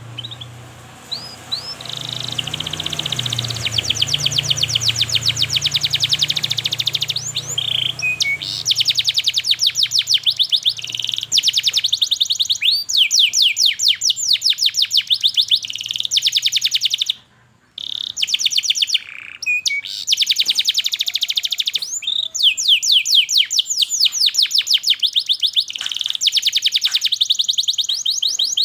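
Domestic canary singing long, rapid trills of evenly repeated high chirps, the 'cuit cuit' song, broken by short pauses and one brief silence about two-thirds of the way through.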